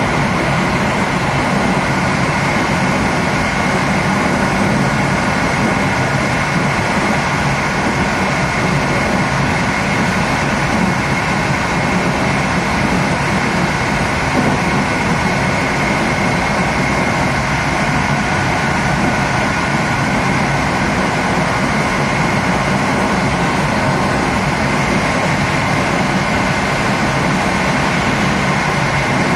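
Steady running noise of a passenger train at speed, heard from the rear of its last coach: wheels rolling on the rails, with a steady high whine over it.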